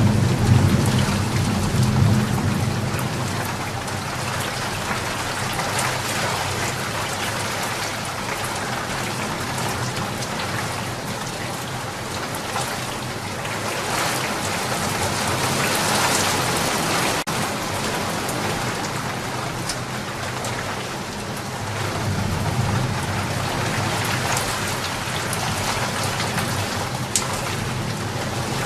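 Steady rain falling, a continuous hiss of drops. Low rumbles of thunder come in the first few seconds and again about two-thirds of the way through.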